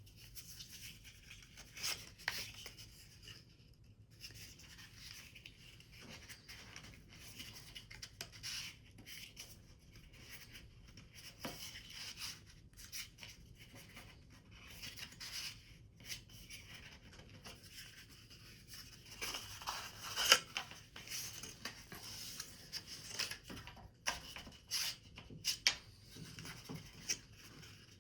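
Paper being handled and worked by hand: intermittent rustling, rubbing and scraping strokes, with a few sharper clicks.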